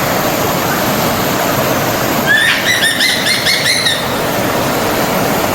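Forest stream flowing with a steady rushing sound. About two seconds in, a songbird sings a quick run of repeated chirps lasting under two seconds.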